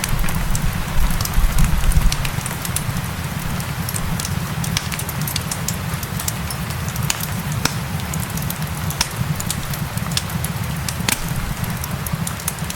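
Wood fire crackling in a fireplace, with many irregular sharp pops and snaps over a low steady roar, mixed with a steady hiss of rain.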